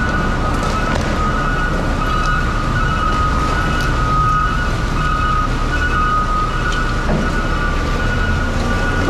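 A vehicle on the road: a steady low rumble of engine and road noise, with a high two-note tone held over it, the two pitches taking turns in strength.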